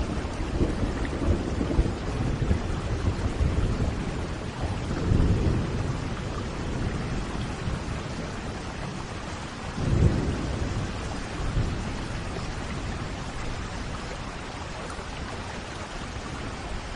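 Thunderstorm: steady rain hissing throughout, with rolling thunder rumbling in the first seconds, again around five seconds in, and a louder clap about ten seconds in that rumbles off, leaving the rain.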